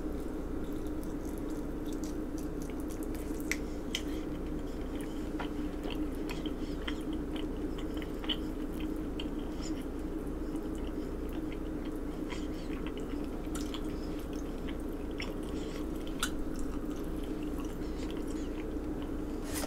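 Close-mic chewing and mouth sounds of someone eating chicken wings, with scattered small clicks and smacks, over a steady low hum.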